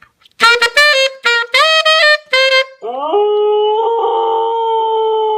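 Husky vocalizing: a quick run of short rising 'woo' calls, then about three seconds in a long howl that rises in pitch and holds steady.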